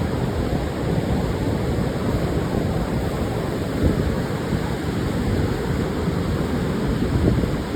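Pacific surf washing onto a sandy beach, a steady rushing wash with wind buffeting the microphone.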